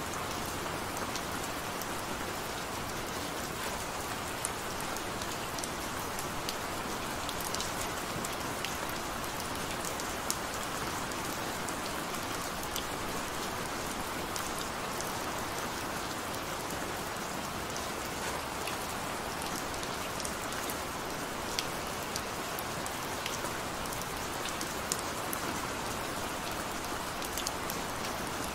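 Gentle rain falling steadily: an even hiss with scattered sharp ticks of single drops striking.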